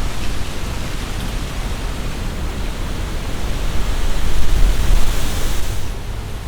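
Strong wind gusting through trees, the leaves rustling hard, with a low rumble of wind buffeting the microphone. A gust swells about four seconds in, the leaf rustle rising with it, then eases off near the end.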